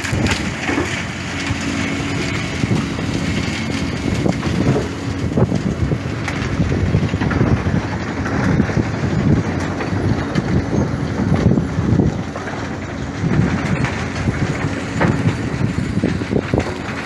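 A heavy machine's engine running, with uneven low rumbling surges over a steady hum.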